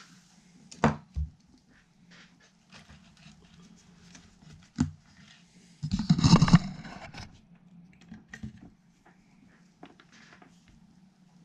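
Handling noises during guitar assembly: a few sharp knocks of parts or tools being set down, and a louder scraping rustle lasting about a second midway, over a steady low hum.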